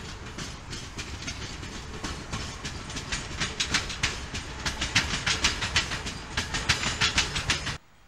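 Yellow-and-red electric multiple-unit passenger train passing, its wheels clacking over rail joints and crossings in quick clusters of clicks that grow louder over a low rumble. The sound cuts off suddenly near the end.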